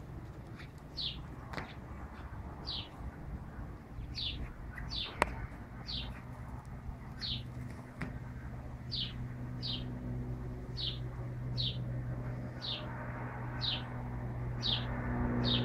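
A bird chirping over and over, one short falling chirp roughly every second, over a dog gnawing a rubber flip-flop, with a few sharp clicks, the loudest about five seconds in. A low hum grows louder near the end.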